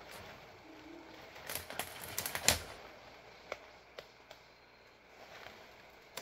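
A quick run of sharp clicks and snaps, loudest about two and a half seconds in, followed by a few single clicks.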